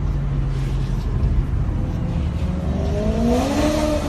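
BMW car engine running with a low, steady rumble, then revving up with a rising pitch in the last second or so.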